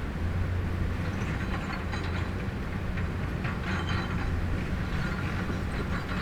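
Excavator's diesel engine running steadily, with irregular metallic clanks and scraping from about a second in.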